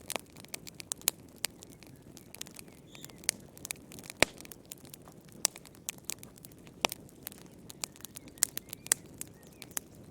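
Wood fire crackling in a fireplace: irregular sharp pops and snaps, a few louder ones standing out, over a soft steady hiss of the burning.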